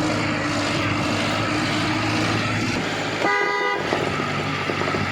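Vehicle driving noise, a steady engine hum and road rush, with one short car-horn toot a little over three seconds in.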